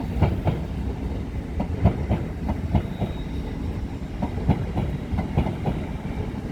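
A train moving along the track through a station, a low rumble with irregular clacks and knocks as its wheels run over rail joints and points.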